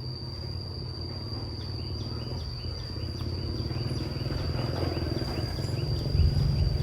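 A cricket-like insect trills steadily and high-pitched, with a run of short chirping calls in the middle. Under it a low rumble of oncoming rain and wind swells toward the end.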